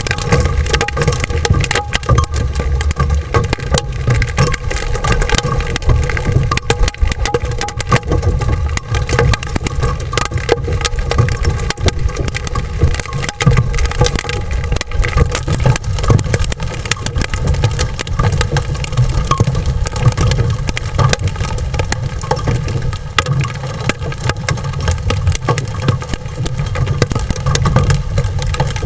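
Large hail, 2 to 2.5 inches across, striking a roof-mounted camera dome and the vehicle roof in heavy rain. It makes a loud, constant clatter of hard impacts over a low rumble.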